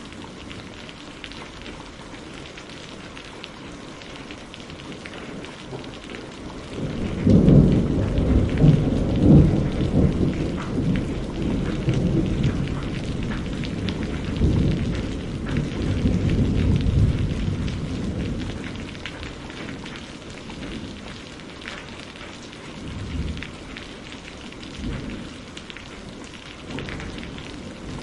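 Steady rain, with a long low rumble of thunder that sets in about a quarter of the way through, swells, and dies away over some ten seconds, followed by a couple of faint distant rumbles.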